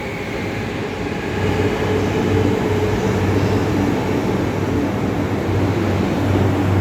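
E235-1000 series electric commuter train pulling into a station: steady rail running noise with a motor whine, growing a little louder after about a second.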